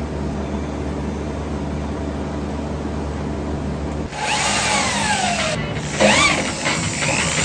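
A power tool running: a steady low motor hum, then from about four seconds in a louder, harsher working sound with squealing pitch glides.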